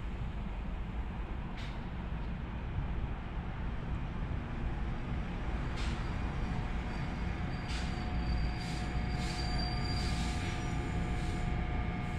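A train running on the rails with a steady low rumble. About halfway through, a thin steady squeal and a few sharp clicks join in.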